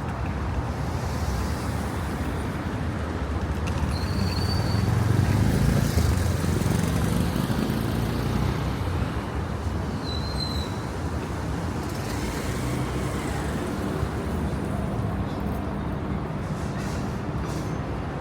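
City traffic ambience: a steady low rumble of road vehicles that swells as one passes about five seconds in, with two brief high squeaks.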